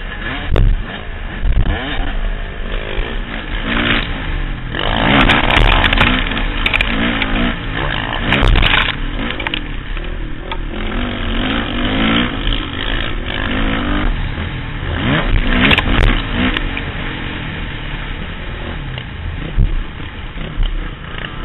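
Motocross bike engine revving up and down repeatedly as it is ridden through the track, heard from the rider's helmet camera with rushing wind noise and occasional clatters.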